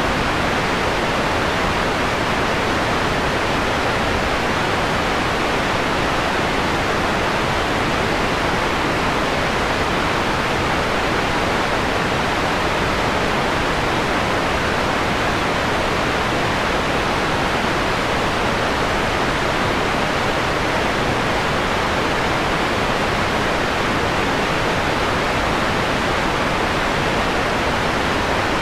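Steady synthetic white noise, filtered so that its treble is rolled off into a softer, mellower hiss.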